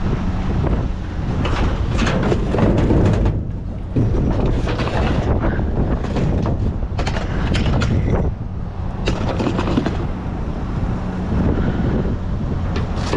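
Wind buffeting the microphone, with repeated knocks, clatters and rattles of junk being pulled out and handled.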